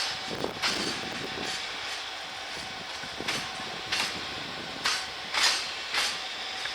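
Freight train wagons rolling past, their wheels clacking over rail joints every half second to second over a steady rolling rumble.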